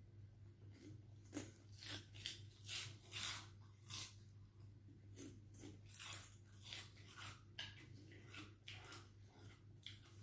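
Close-up crunching and chewing of crispy chicharon (fried pork rinds): irregular crisp crunches about every half second to second, over a steady low hum.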